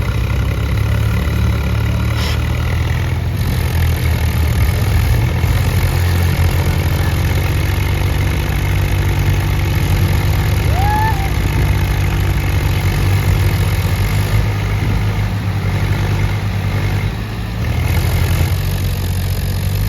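Tractor diesel engine running steadily, a low rapid chugging.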